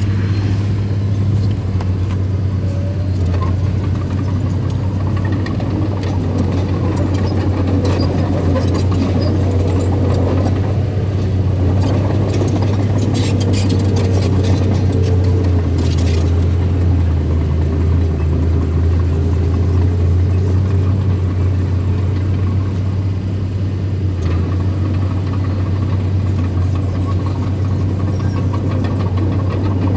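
Diesel engines of earthmoving machinery, a small bulldozer and dump trucks, running steadily while moving soil. The engine note drops lower for a few seconds around the middle, with a few light clanks shortly before.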